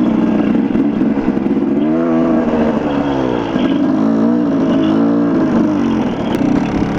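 Dirt bike engine running on a trail ride, rising and falling in pitch three or four times in the middle as the throttle is worked, steady before and after.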